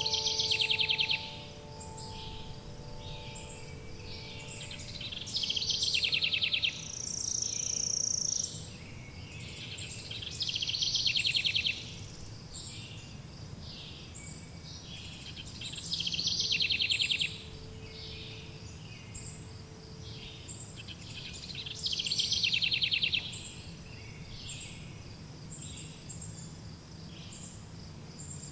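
Birdsong: a songbird repeats a short, fast trilled phrase about every five to six seconds, five times in all, over a steady low rumble of outdoor background noise.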